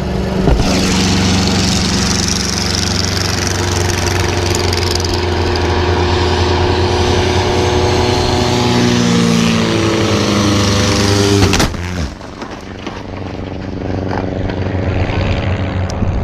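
Small piston racing-plane engines with propellers running loudly, a second engine note gliding down in pitch over a few seconds. About eleven and a half seconds in comes a sudden loud crash as the other plane strikes the racer, then the engine sound is quieter and lower.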